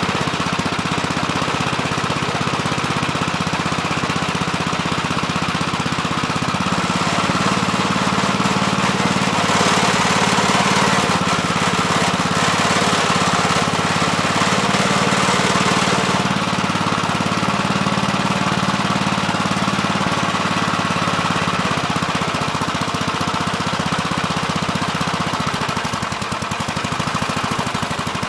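Gravely Terramite compact backhoe's engine running steadily while digging, louder and harsher for several seconds in the middle.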